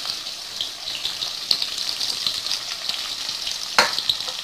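Sliced onions, curry leaves and green chillies frying in hot oil in a kadai: a steady sizzling hiss dotted with small crackles, with one sharp click near the end.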